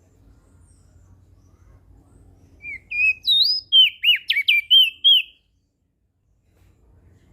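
Crested white-eye (opior jambul) singing one short phrase of clear whistled notes that slide up and down, starting a little before the middle and lasting about two and a half seconds.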